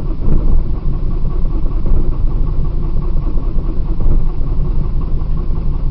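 Cold 1999 Saturn SC1 1.9-litre four-cylinder turning over as it struggles to start, with a loud, rough, steady rumble. The owner says it might be partly down to a fuel filter in need of replacement, since the filter regulates the fuel pressure on these Saturns.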